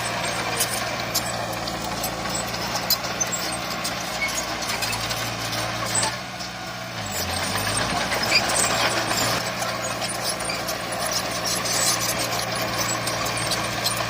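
Heavy diesel earthmoving machinery running, with the steady engine note and scattered metallic clanks and rattles. The engine note drops and shifts pitch briefly about halfway through.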